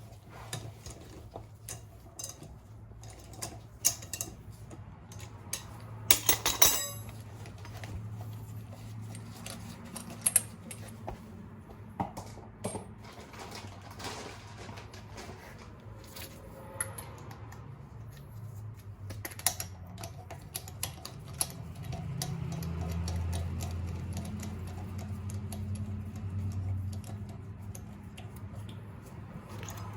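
Metal lug nuts and tools clinking and rattling as lug nuts are swapped on a wheel's studs, with sharp clinks scattered throughout. A low hum underneath swells for a few seconds about three quarters of the way through.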